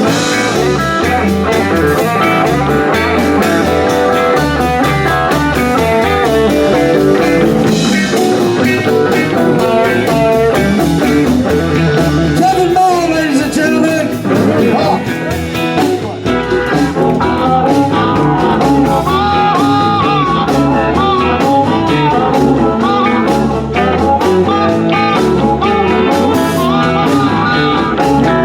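Live blues band playing an instrumental passage: a lead guitar bending and sliding notes over bass and drums.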